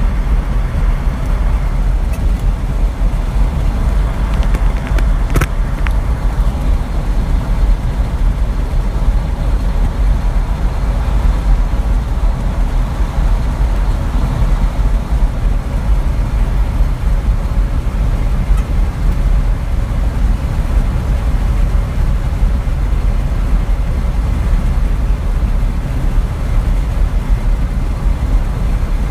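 A truck driving along, its engine and road noise making a steady low rumble, with one brief click about five seconds in.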